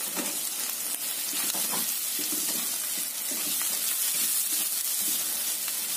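Thinly sliced fish balls, spice paste and scrambled egg sizzling in oil in a wok over medium heat, with a steady frying hiss and now and then a faint scrape or tap of stirring.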